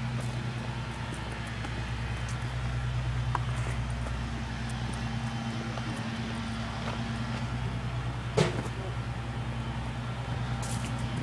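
A steady engine hum with no change in pitch, and one sharp knock about eight seconds in.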